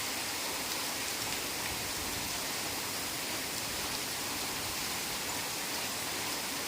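Heavy rain falling steadily in a forest, an even hiss with no breaks or distinct drops standing out.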